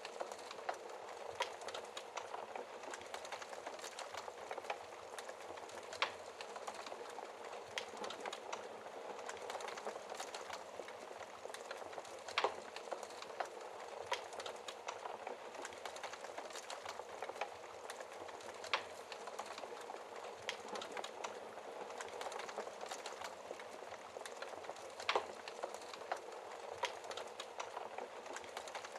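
Wood fire burning in a fireplace: a steady hiss of flames with constant small crackles and an occasional louder pop from the burning logs, about every six seconds.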